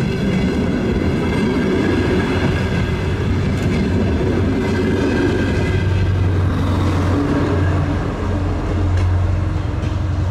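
Passenger train heard from aboard while running: a steady drone with a low hum and, in the first half, a faint higher whine.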